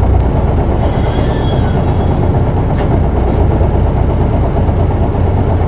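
Isuzu Erga PKG-KV234L2 city bus's diesel engine running steadily, heard from inside the cabin as the bus slows for a stop. A faint thin squeal comes about a second in, and two short clicks come about three seconds in.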